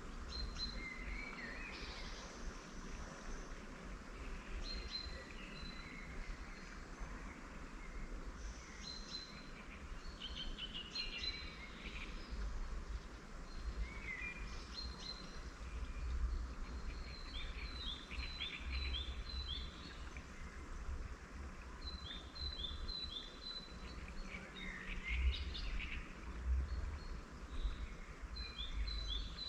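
Several wild birds singing and calling, with short high chirps and trills throughout and, now and then, a rapid row of short down-slurred notes about four a second. A low rumble runs underneath.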